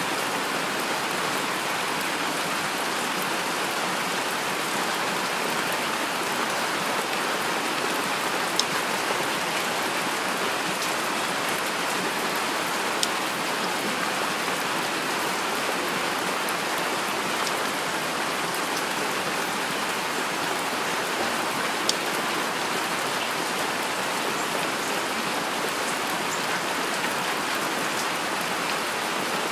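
Heavy rain falling steadily: a dense, even hiss of rainfall, with a few sharp, slightly louder ticks of single drops here and there.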